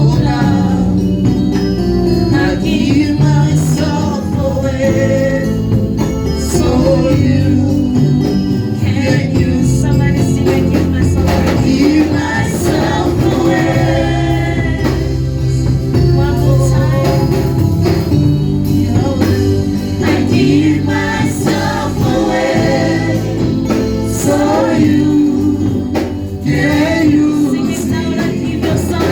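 Gospel worship music: voices singing over instrumental accompaniment with steady held bass notes.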